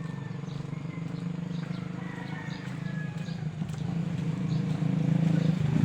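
A motorcycle engine running, getting steadily louder as it approaches, with faint bird chirps over it.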